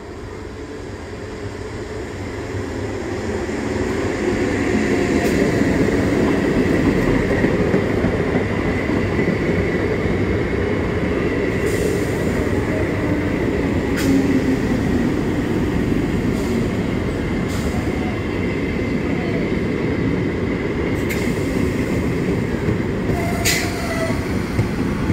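Indian Railways EMU electric local train running close past on the track. It grows louder over the first few seconds, then holds as a steady rumble of wheels on rails, with a thin high whine and several sharp clicks from the wheels.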